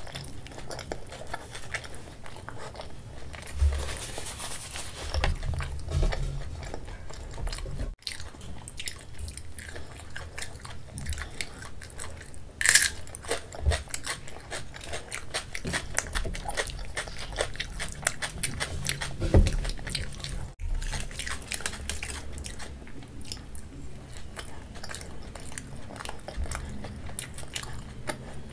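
Close-miked chewing and mouth sounds of a person eating chole, kadhi and rice by hand: many small clicks and smacks, with a sharper click about twelve seconds in and a low thump about nineteen seconds in.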